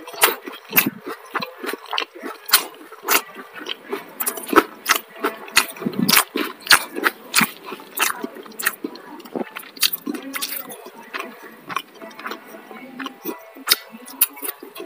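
Close-miked eating: chewing, lip-smacking and mouth clicks over a mouthful of rice with crispy tempeh, with a spoon scooping in a ceramic bowl. Many sharp, irregular smacks and clicks a second.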